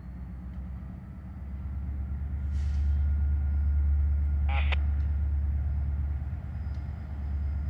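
Steady low rumble of a distant diesel-hauled freight train, growing louder over the first few seconds and then holding.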